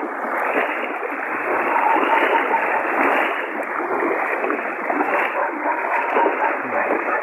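Floodwater rushing and splashing: a steady, even wash of water noise with no pauses.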